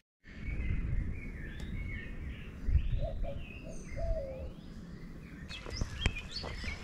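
Wild birds singing and chirping, with warbling, swooping notes in the middle, over a steady low rumble. Footsteps start about five and a half seconds in.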